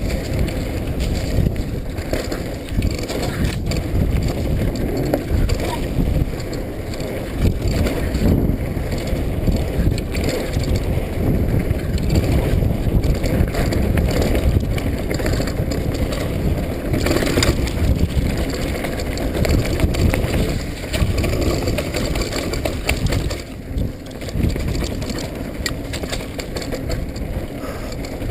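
Mountain bike riding down a wet trail: wind buffets the microphone, the tyres run over wet dirt and the bike rattles over bumps.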